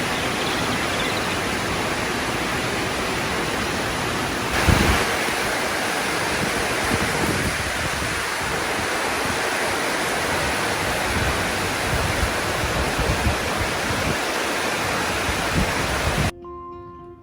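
Heavy rain pouring down in a steady, loud rush, with a brief louder surge about a quarter of the way in. It starts and stops abruptly, a little before the end.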